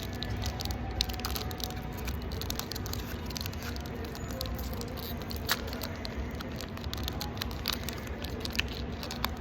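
Pokémon trading cards being handled and slid against one another, with scattered light clicks and taps over a steady background hum.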